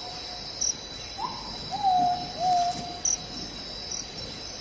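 A bird's whistled calls, several times, each rising briefly and then dropping to a held lower note, over a steady high-pitched drone of insects.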